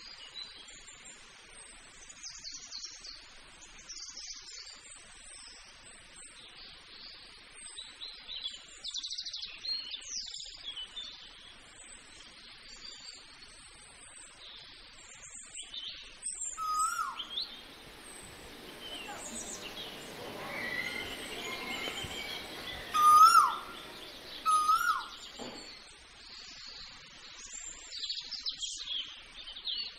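Birds calling: many small birds chirp high and thin throughout, and a louder bird gives three sharp calls that rise and then drop in pitch, spaced a few seconds apart in the second half.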